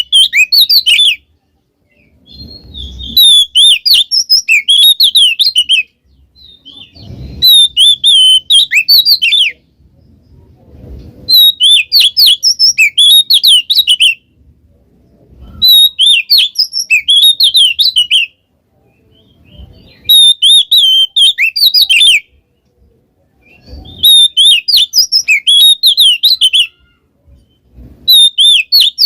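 Oriental magpie-robin (kacer) singing loud, full-volume song phrases of rapid, sharply gliding whistled notes. Each phrase lasts about three seconds and repeats every four seconds or so after a short pause, with a low thud just before most phrases.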